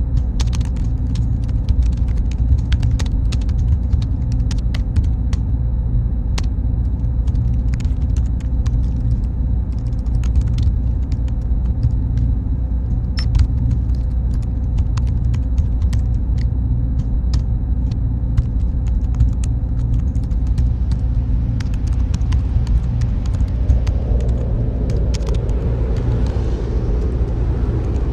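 Server room ambience: a steady deep rumble of machine fans with faint steady tones and many scattered small clicks. A wider hiss swells in over the last few seconds.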